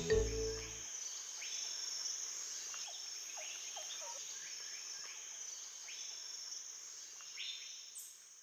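Forest ambience of insects making a steady high buzz, with birds repeating short falling calls and a few lower falling calls near the middle. The tail of a music cue stops about a second in.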